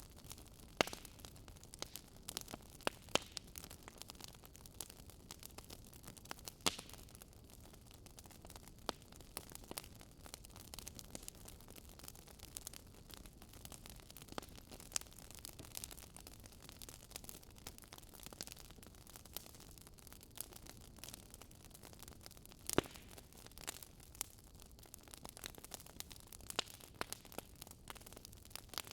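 Wood fire crackling: a steady low hiss with irregular sharp pops and snaps, a few much louder than the rest.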